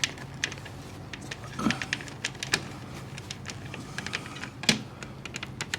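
A screw being started and turned by hand into a storm door hinge: a run of small, irregular clicks and ticks with a couple of faint creaks, and no drill motor running.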